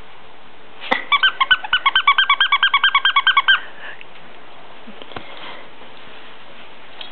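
A bird calling: a rapid, even run of about twenty short, squeaky pitched notes lasting about two and a half seconds, starting about a second in just after a sharp click.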